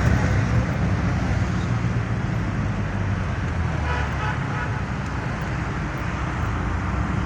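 Road traffic with a steady low rumble, and a few short car horn toots about four seconds in.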